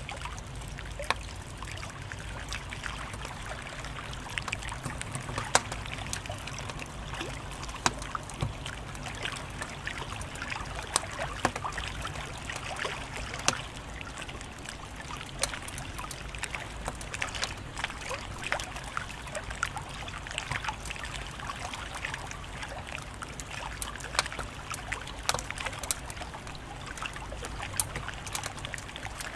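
Wood fire crackling, with many irregular sharp pops and snaps over a steady hiss and a low hum.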